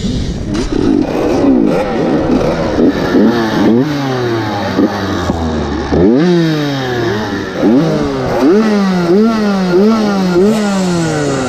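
Several motocross bikes running on the track, their engine notes overlapping and rising and falling in pitch as they rev and change gear. From about six seconds in, one bike is loudest, revving up and backing off in quick repeated bursts about twice a second.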